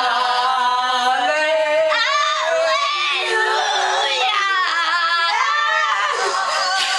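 Wordless high singing by more than one voice, with gliding, wavering melismatic runs.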